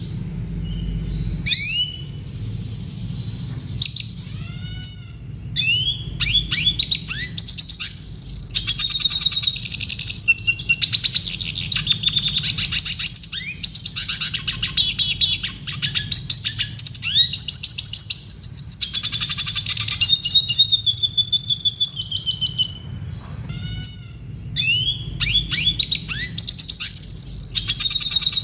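Red siskin singing: a long run of rapid twittering trills and downward-sliding whistles, broken by short pauses about halfway and near the end, over a low steady hum.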